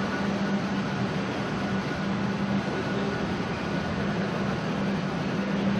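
A steady mechanical hum with a constant low tone over even background noise, unchanging throughout.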